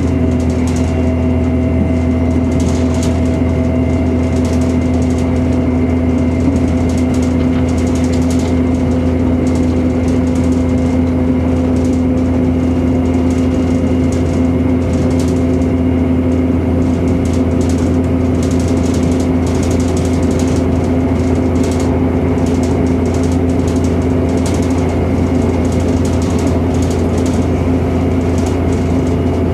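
Chiltern Railways Class 168 diesel multiple unit heard from inside the carriage, running at speed: a steady, loud drone of the underfloor diesel engine and wheels on the rails, with a faint ticking rattle over it.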